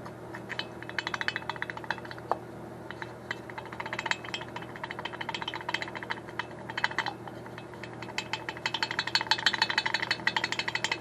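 Worn Vespa piston rocked back and forth by hand, clicking and clacking rapidly in bursts: piston slap from a piston whose aluminium has worn from overheating.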